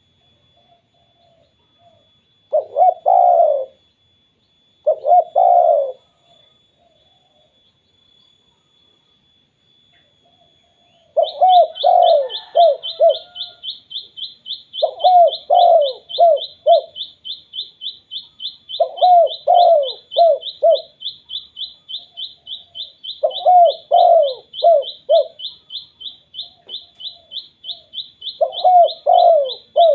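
Spotted dove (tekukur) cooing: two short coos a few seconds in, then from about a third of the way in a repeated phrase of several coo notes about every four seconds. A fast, high-pitched pulsing trill runs alongside the later coos.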